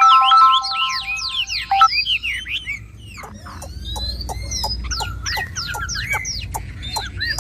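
Hwamei singing a fast, varied song of whistled slurs and sharp notes. For about the first two seconds a ringtone-like electronic chime of steady notes plays over it, then stops.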